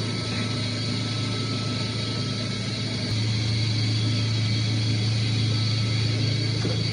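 Steady hum of running chiller plant machinery: a strong low drone with a thin high whine over a constant rush of noise. The low hum grows a little stronger about three seconds in.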